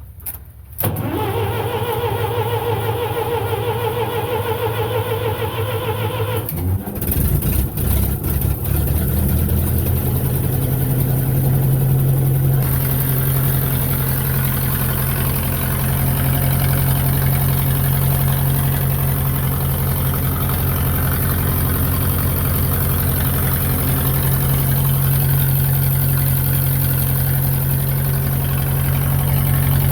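Classic farm tractor being started: the starter motor whines for about six seconds of cranking, then the engine catches and settles into a steady idle.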